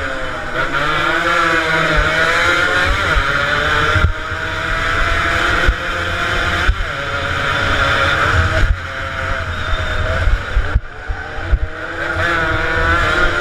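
Several two-stroke motorcycle engines racing, revving up and down with overlapping, shifting pitches.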